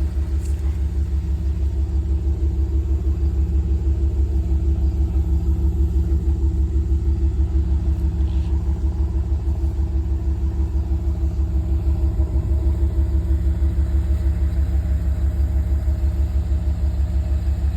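Truck engine idling steadily, a low rumble with a fast, even throb.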